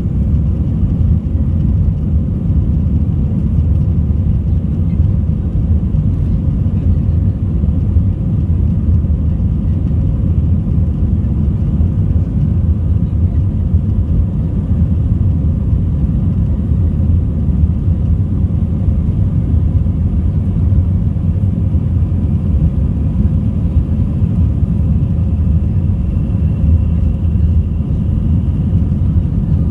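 Steady cabin noise inside an Airbus A319 in flight: a deep, even rumble of engines and airflow, with a faint high whine coming in near the end.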